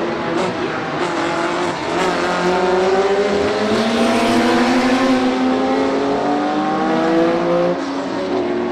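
Historic sports racing cars' engines accelerating on the circuit. Several engine notes overlap, their pitch rising steadily for several seconds, and the sound drops away near the end.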